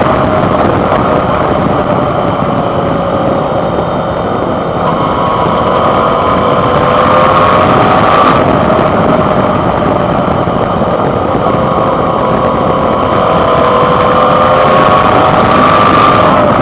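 Suzuki V-Strom 650's 645 cc V-twin engine running loud and close. Its revs slowly rise and fall, climbing toward the middle and again near the end.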